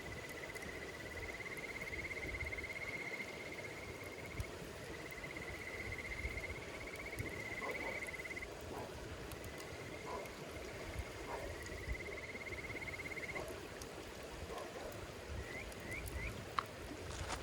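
An insect trilling at one high pitch in phrases a few seconds long with short pauses between, then three quick chirps near the end. A wood fire crackles now and then, with two sharp pops near the end.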